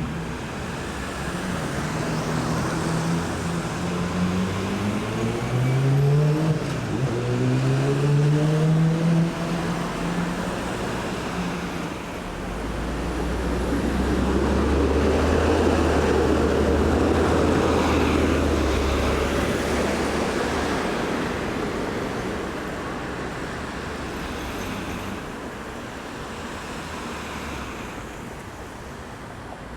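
Road traffic at a roundabout: vehicle engines pulling away with rising pitch during the first ten seconds, then a heavier vehicle with a deep, steady engine drone passing by through the middle. The sound fades toward the end.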